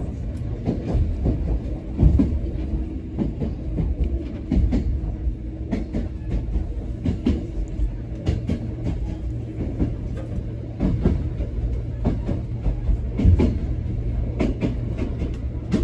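Choshi Electric Railway train car running, heard from inside the cabin: a steady low rumble with a faint hum, and wheels knocking over rail joints at irregular intervals.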